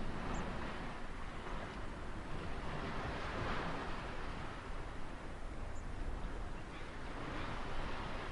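Ocean surf washing in, a steady rush of breaking waves that swells to its loudest about three and a half seconds in.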